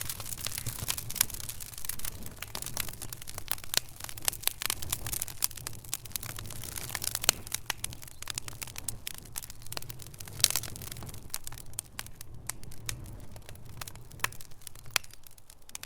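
Wood fire crackling in a fireplace: dense, irregular snaps and pops over a steady low rumble of the flames. A few pops stand out louder, the loudest about ten seconds in.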